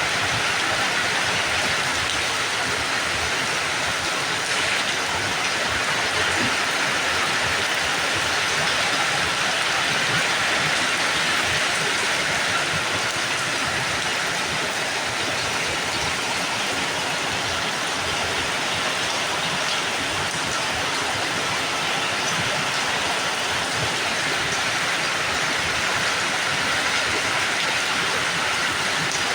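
Steady rainfall, an even hiss of rain with a dense patter of drops on surfaces.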